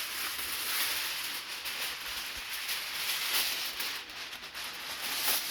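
Aluminium foil crinkling and rustling as a sheet is folded in half and handled.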